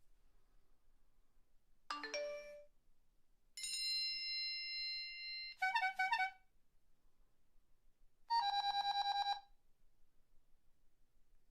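A string of mobile phone alert and ringtone sounds, one after another with short gaps: a quick chime about two seconds in, a held electronic tone, a brief warbling trill, and then a rapid fluttering beep lasting about a second.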